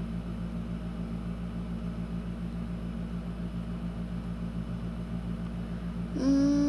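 A steady low machine hum, several fixed low tones over a rumble, with no change through the pause; a voice starts near the end.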